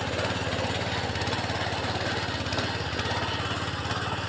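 Tractor engine running steadily while ploughing a hill field, with an even, rapid chug.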